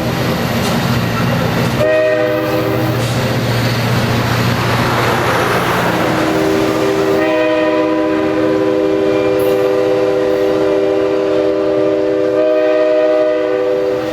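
Nathan K5LA multi-chime air horn on a Pacific Surfliner EMD F59PHI diesel locomotive. It gives a short blast about two seconds in, then a long blast from about six seconds on, over the diesel engine's rumble and the passing train's noise. This is the pattern at the end of a grade-crossing horn sequence.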